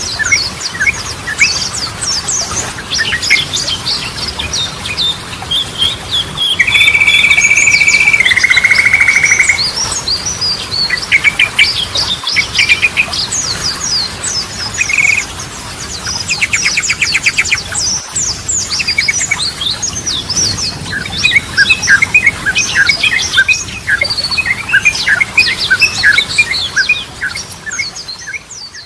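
Yellow-vented bulbuls (trucukan) singing: a dense run of quick chirps and phrases. About seven seconds in there is a loud, held, whistle-like note, then a buzzy note, and a fast trill comes about halfway through.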